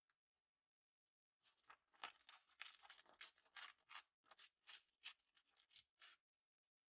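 Paper being handled: a faint run of short, crisp rustling strokes, about three or four a second, with a brief pause midway.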